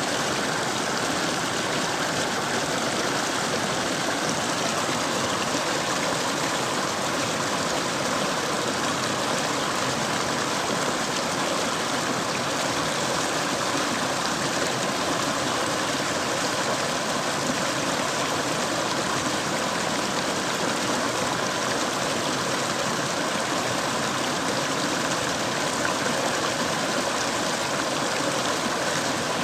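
Mountain stream flowing over rocks: a steady, even rushing of water.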